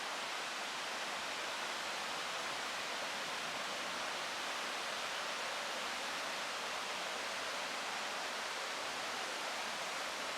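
A waterfall's steady rushing: an even hiss of falling water that holds at one level throughout.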